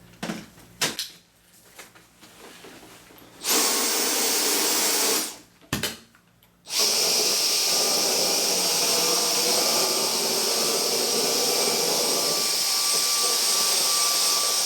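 Dyson DC35 cordless stick vacuum's digital motor switched on about three and a half seconds in and off again under two seconds later. It comes back on a second or so after that and runs steadily, picking large carpet-freshener granules out of carpet.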